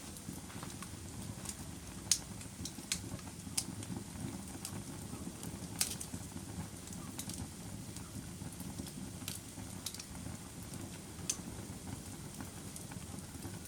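Fire burning in a fireplace, crackling: a steady low rumble of flames with irregular sharp pops and snaps, the loudest about two and six seconds in.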